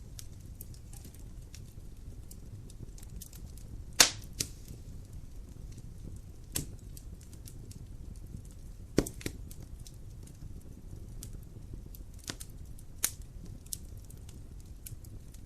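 Wood fire crackling in a fireplace: a steady low rumble of flame with scattered sharp pops, the loudest two about four and nine seconds in.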